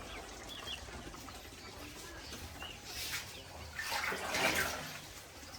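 Water splashing and trickling, with two louder surges of splashing about three and four seconds in, and a few short high bird chirps.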